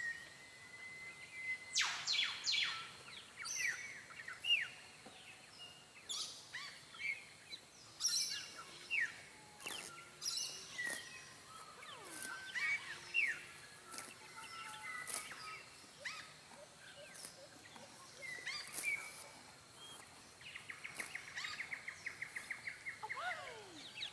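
Wild birds calling and singing: scattered sharp whistles and falling chirps, with a fast rattling trill lasting about two seconds near the end.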